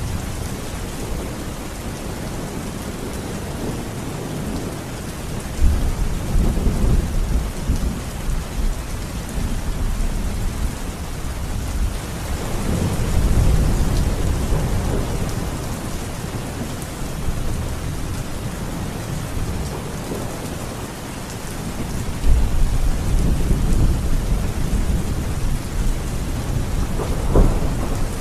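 Steady rain with thunder rumbling low three times, about six, thirteen and twenty-three seconds in, and a sharper crack of thunder near the end.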